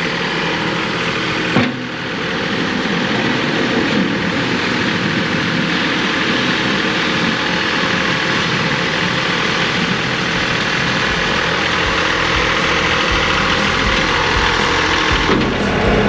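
John Deere 2038R compact tractor's three-cylinder diesel engine running steadily, with a single thump about a second and a half in. A deeper rumble sets in near the end.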